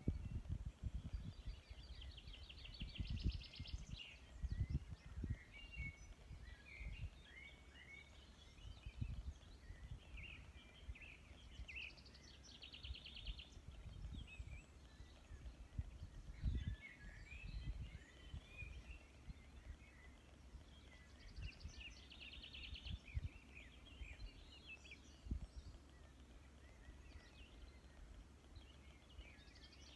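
Faint songbirds singing and calling, with one bird repeating a rapid, even trill about every nine seconds. Irregular low rumbles come and go underneath.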